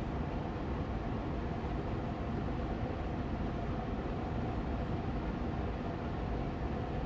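Austin Air Allergy Machine air purifier fan running steadily on medium speed: an even rushing hum with a faint steady tone in it.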